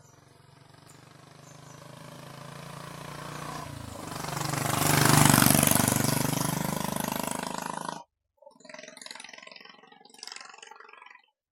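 Royal Enfield Classic 350 single-cylinder engine through a short bottle exhaust as the motorcycle rides past: it grows louder as it approaches, is loudest about five seconds in, and drops in pitch as it goes by. The sound cuts off abruptly about eight seconds in, and a quieter stretch of engine sound follows.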